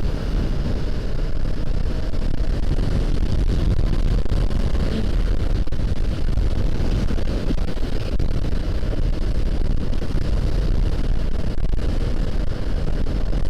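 Honda CBR500R parallel-twin motorcycle running steadily at road speed, its engine mixed with a heavy, even rush of wind on the microphone.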